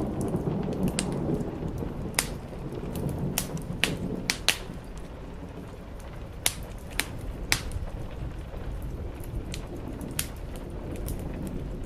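Wood fire crackling in a fireplace, with sharp pops at irregular intervals, over steady rain on a roof. A low rumble swells and fades in the first two seconds.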